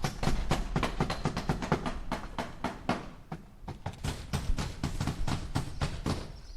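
Hammer driving nails into wood: a quick run of sharp strikes, about five or six a second, that stops shortly before the end.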